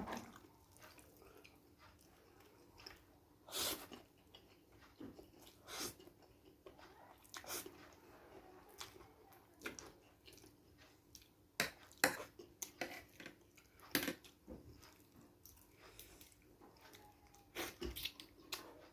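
A person eating fried instant noodles with bean sprouts close to the microphone: wet chewing and mouth smacks, with scattered short sharp clicks a few seconds apart.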